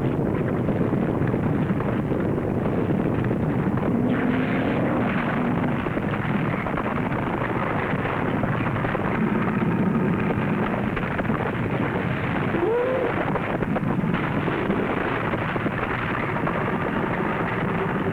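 Film sound effect of a volcanic eruption: a continuous, even rumbling noise on a dull-toned old soundtrack. About two-thirds of the way in, a short pitched cry rises and falls over it.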